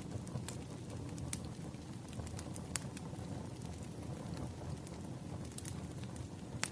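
Wood fire burning, with a steady low rumble and sharp crackles and pops every second or so.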